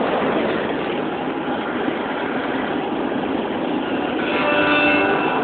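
Steady vehicle running noise, an even rumble-and-hiss with no breaks. Faint steady tones join it near the end.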